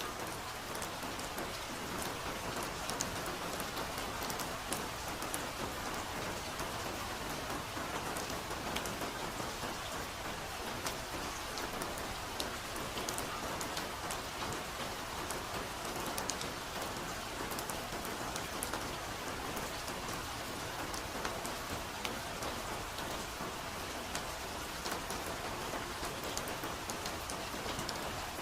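Steady soft rain falling, an even hiss with many small drop ticks throughout.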